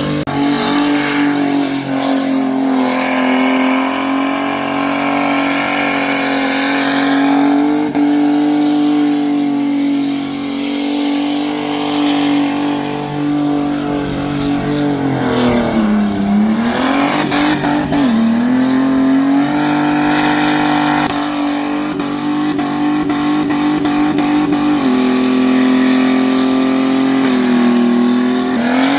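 V8 muscle car engine held at high revs during a burnout, its pitch nearly steady, with a couple of quick dips in revs about halfway through.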